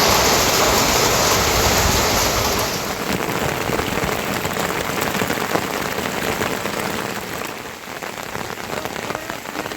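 Rain falling steadily, heavier for the first three seconds, then easing into lighter rain with many individual drops ticking.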